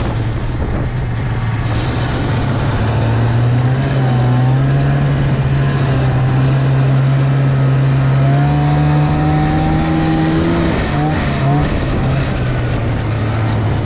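Snowmobile engine running steadily, its pitch climbing slowly through the middle, then falling away about three-quarters of the way through.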